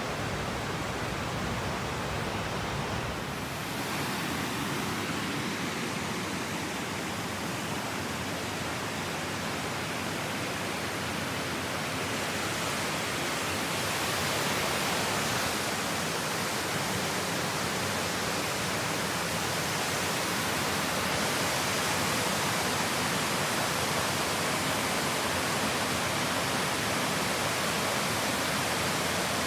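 Steady rush of fast-running water, like a waterfall or a tumbling stream, growing slightly louder about halfway through.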